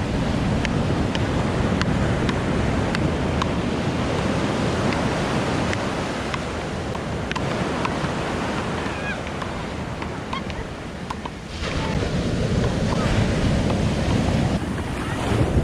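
Ocean surf washing and breaking on a sandy beach, with wind rumbling on the microphone. The roar eases briefly about two-thirds of the way through, then swells again.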